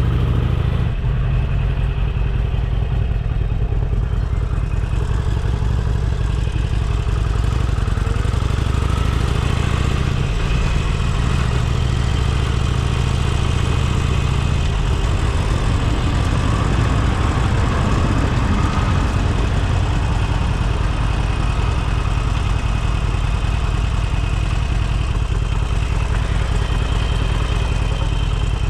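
Motorcycle engine running steadily, with a low, even drone; its pitch pattern shifts between about ten and sixteen seconds in.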